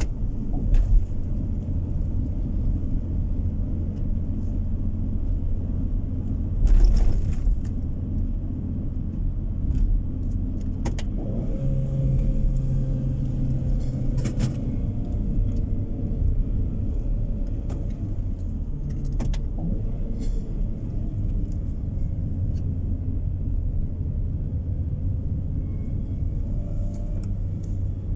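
Car driving on the road, heard from inside the cabin: a steady low rumble of engine and tyre noise, with a louder bump about seven seconds in and a few light clicks and rattles.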